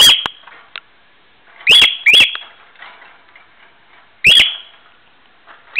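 Pet cockatiel giving loud, short, high calls that sweep upward in pitch, about four of them, two in quick succession around two seconds in.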